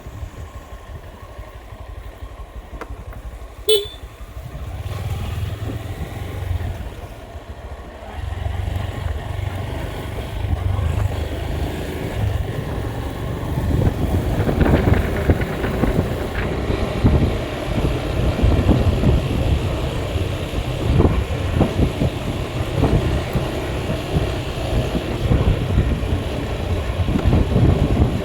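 Engine and road noise from a moving vehicle, a low rumble that grows louder about halfway through, with a brief horn beep about four seconds in.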